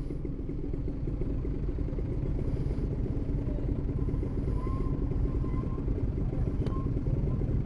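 Steady rumble of a motorcycle ride: engine and wind noise picked up by a helmet-mounted microphone.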